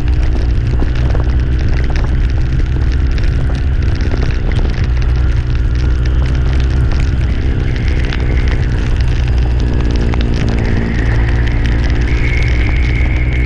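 Motorcycle riding: heavy wind rumble on the microphone over a steady engine note that shifts in pitch a few times.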